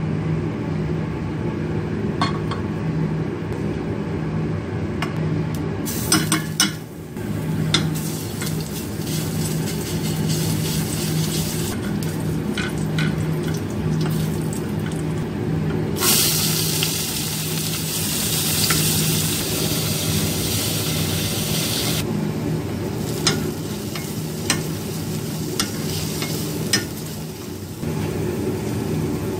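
Onions and oil frying in a pan, sizzling, with a wooden spatula stirring and knocking against the pan now and then. About halfway through the sizzle turns much louder for several seconds, then settles back.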